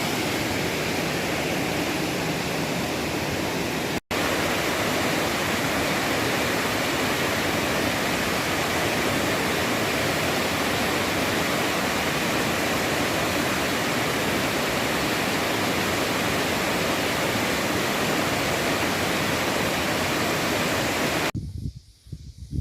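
Waterfall: a steady, loud rushing of falling water, broken for an instant about four seconds in. Near the end the rushing cuts off abruptly, leaving a few faint irregular sounds.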